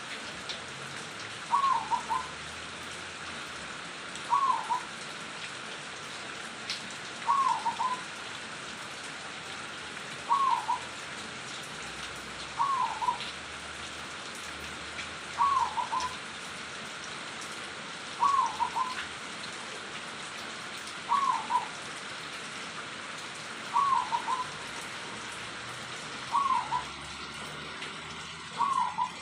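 Zebra dove (perkutut) singing, its short cooing phrase repeating about every three seconds, over a steady hiss.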